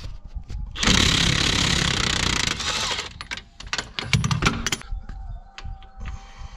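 A power tool runs in one loud burst of about two seconds while loosening a front-suspension nut, followed by a string of sharp metal clicks and knocks.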